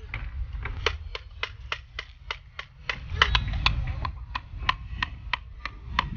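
Hammer driving nails into a wooden birdhouse kit: a steady run of sharp blows, roughly three a second.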